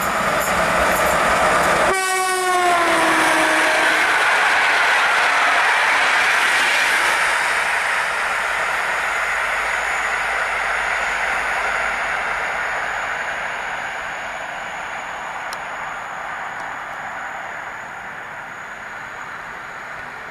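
EP07 electric locomotive with a passenger train passing at speed while sounding its horn; the horn's pitch drops sharply as the locomotive goes by about two seconds in. Then the coaches rush and clatter past, and the sound slowly fades as the train draws away.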